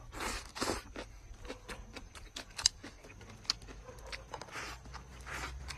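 Close-up eating sounds: a man biting into and chewing a large mouthful of lettuce and chicken, a run of short crunching, chewing noises with a couple of sharp clicks about midway.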